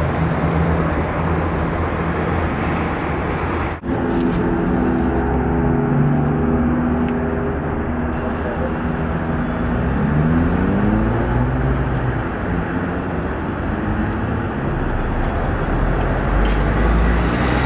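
Car engine and road noise heard from inside a car, running steadily, with the engine note rising about ten seconds in as the car speeds up. The sound cuts out briefly near four seconds.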